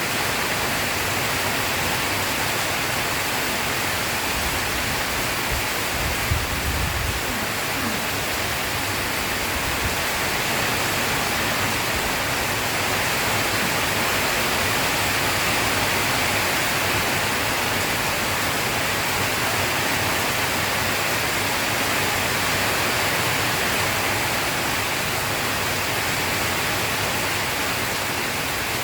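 Steady heavy rain. There is a brief low rumble about six seconds in.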